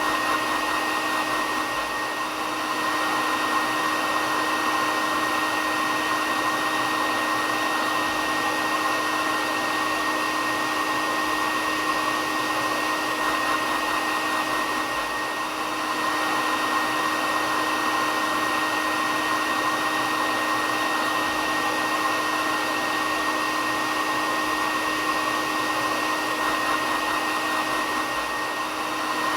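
Hair dryer blowing steadily: an even rushing noise with a steady hum and a higher whine running through it.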